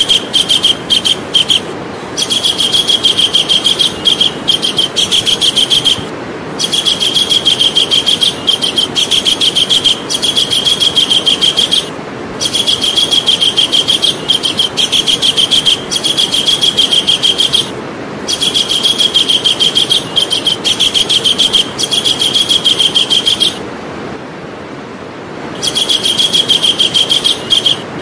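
Javan kingfisher calling: fast rattling series of sharp, high repeated notes in bouts of about five seconds, broken by short pauses, with a longer pause near the end.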